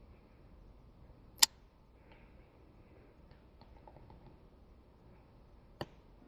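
Two sharp clicks over a quiet background: a loud one about a second and a half in and a fainter one near the end, with a few faint ticks between them.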